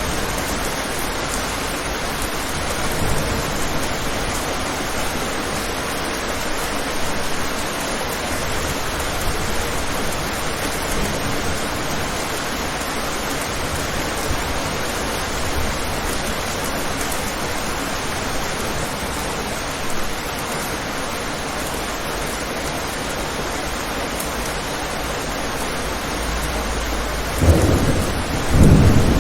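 Steady rain falling on a window, with a low rumble of thunder swelling up near the end.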